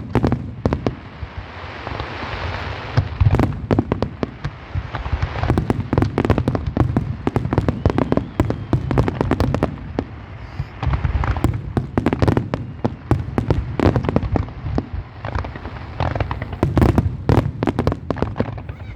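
Fireworks display: a dense, irregular barrage of bursting shells, sharp bangs overlapping with a deep rumble and crackling.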